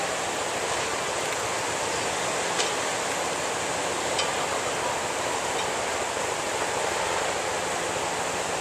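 Steady rushing of tsunami surge water pouring through a harbor, with a couple of faint knocks.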